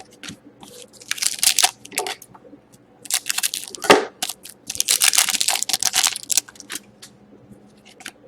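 Foil wrapper of a trading card pack being torn and crinkled in three bursts of rustling, with a single knock in the middle.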